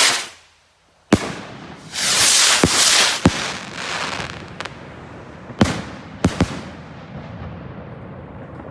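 Fireworks going off: bursts of hissing broken by sharp bangs, one about a second in, a couple around three seconds and a cluster near six seconds, then a fading crackle.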